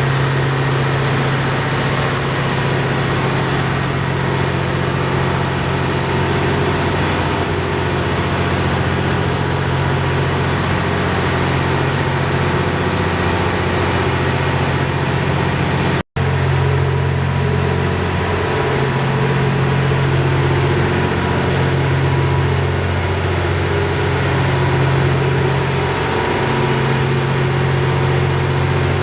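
Diesel engine of the Twilight Express Mizukaze (JR West 87 series) idling as the train stands in the station: a steady low hum. It cuts out for an instant about halfway through.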